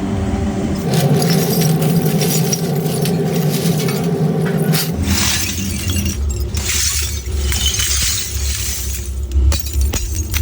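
Glass bottles clinking and breaking over a steady machine hum, the sound changing abruptly about a second in and again about five seconds in.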